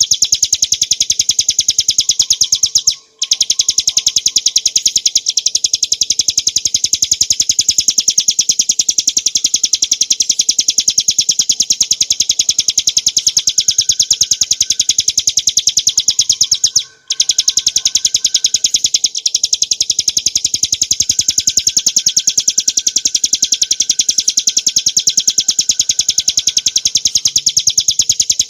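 Ciblek gunung (a prinia) singing a very fast, continuous, high-pitched chattering trill, pausing briefly twice.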